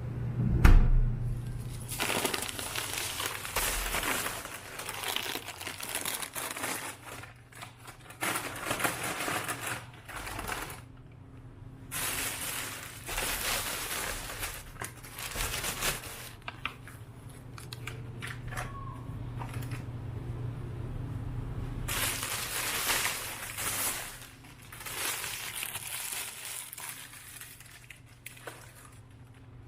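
Rustling and crinkling, as of material being handled, in irregular stretches over a steady low hum.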